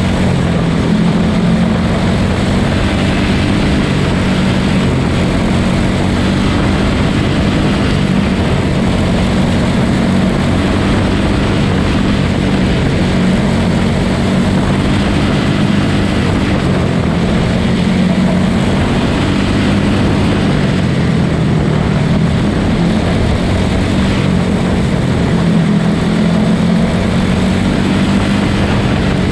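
Quarter midget race cars' small single-cylinder Briggs & Stratton Animal engines running flat out during a heat race, a loud steady buzz whose pitch rises and falls as the cars lap the track.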